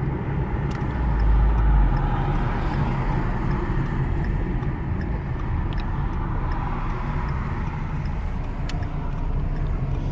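Inside the cabin of a 2010 Ford Focus on the move: a steady low rumble of road and engine noise from its 2.0-litre inline-four.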